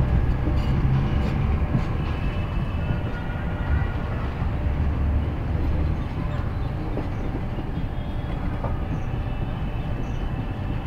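Passenger train running on the rails, heard from the coach's open doorway: a steady low rumble of wheels and coaches, with a few clicks about a second in, easing a little over the first few seconds.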